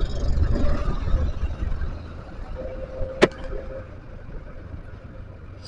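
Yamaha NMAX scooter on the move: a low engine and road rumble that eases off after the first couple of seconds, with one sharp click about three seconds in.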